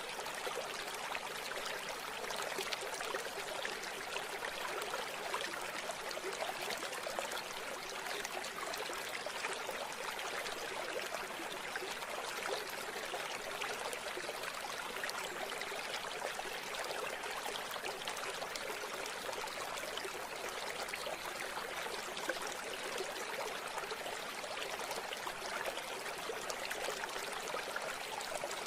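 A river or stream flowing steadily, a constant rushing and babbling of water.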